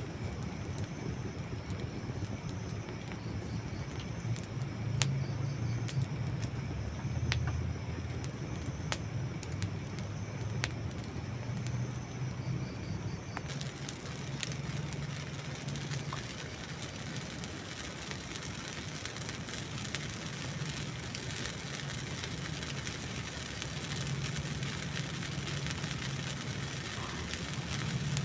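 Burning dry wood in a campfire crackling, with a few sharp pops in the first half, over a steady low rumble. The higher hiss grows louder about halfway through.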